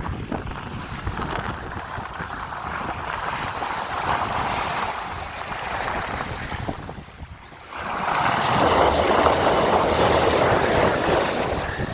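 Wind and sea rushing past a sailing yacht under way in a lumpy sea, with wind buffeting the microphone. The rush swells and dips, then grows louder about two-thirds of the way through.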